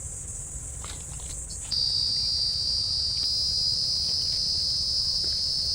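Steady high-pitched insect chorus that starts abruptly, then about two seconds in switches to a louder, somewhat lower-pitched steady trill.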